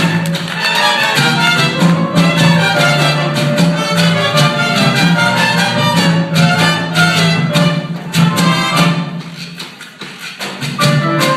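Danzón music with violins carrying the melody over a steady percussion beat and a low bass line. It falls quieter for about a second near the end, then picks up again.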